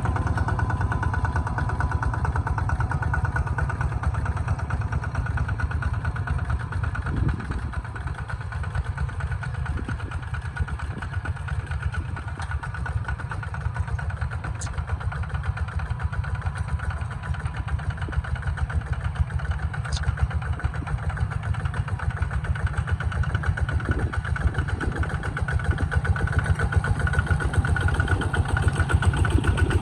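Kubota tractor's diesel engine running steadily with an even, rapid firing beat, growing a little louder over the last few seconds.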